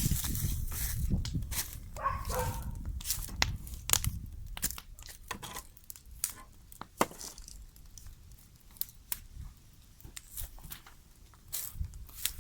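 Bonfire of cardboard burning, with irregular sharp crackles and pops over a low rumble that is strongest in the first few seconds and fades after.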